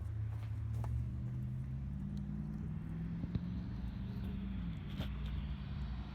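A low mechanical hum from a motor or engine. Its pitch steps up about a second in, holds, and drops back near the end, with a few faint clicks over it.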